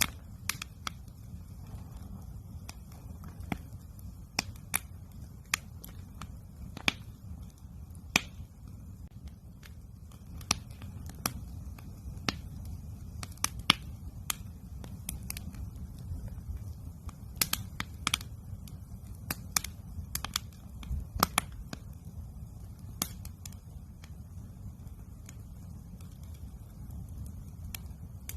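Wood campfire crackling, with irregular sharp pops and snaps, a few every second, over a low steady rumble.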